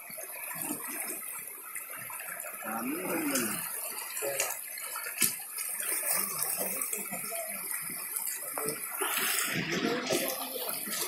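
Floodwater flowing steadily, with faint voices in the background.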